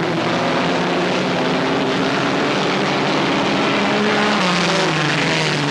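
Several dirt-track race car engines running hard at speed around the oval, their notes overlapping at different pitches, some dropping in pitch in the second half.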